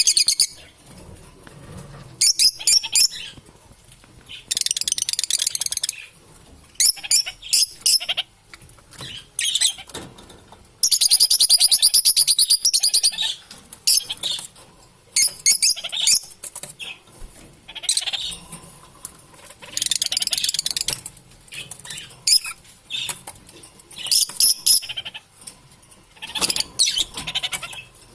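Lovebirds chattering: high-pitched, rapid twittering that comes in bursts, with runs of fast trilling a second or two long between clusters of short chirps.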